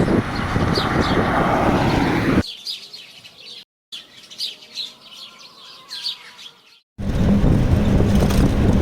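Small birds chirping, repeated short high calls. A loud rushing noise covers the first two seconds or so and comes back about seven seconds in with a steady low hum; between these the chirps are heard on their own, with a brief cut near four seconds.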